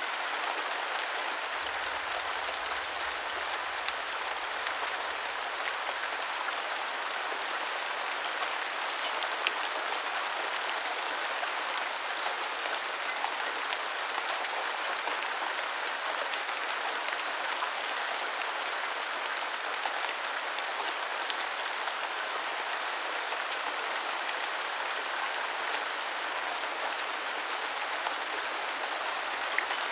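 Steady rain falling, an even hiss with a few sharper single drops landing close by now and then.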